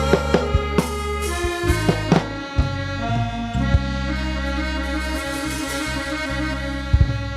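Instrumental music from a Thai mahori folk ensemble: steady held notes under a run of sharp percussion strikes in the first two seconds, settling into a sustained chord, with one more strike near the end.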